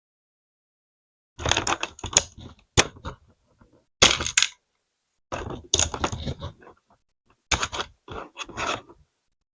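Small plastic LEGO pieces clattering and clicking in several short bursts, about six clusters with pauses between.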